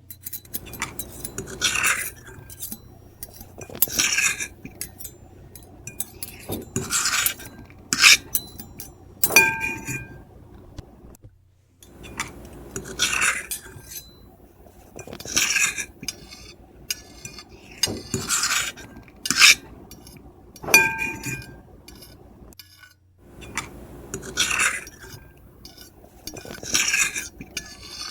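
Metal fork and knife scraping and clinking across a plate in quick, irregular strokes. A few strokes end in a short squealing tone.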